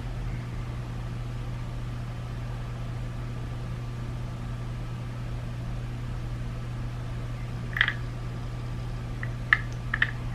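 Steady low hum of background noise, with a few light, sharp clicks near the end as small parts of the controller are handled.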